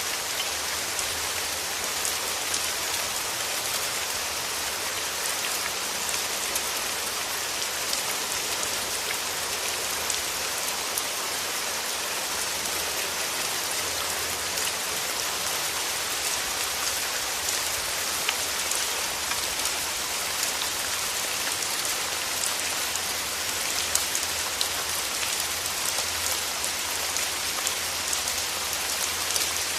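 Steady rain falling through forest trees: an even hiss dotted with countless small drop impacts, holding level without let-up.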